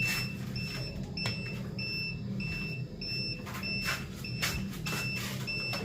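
Automatic egg incubator's electronic alarm beeping: a rapid, steady run of short, evenly spaced high beeps, about two to three a second, over the low hum of the incubator's fans, with some scattered knocks of handling.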